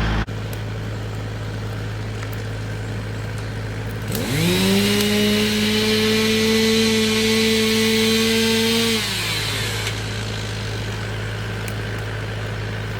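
Two-stroke chainsaw revving up about four seconds in, running at high speed for about five seconds, then dropping back off, over a steady low hum.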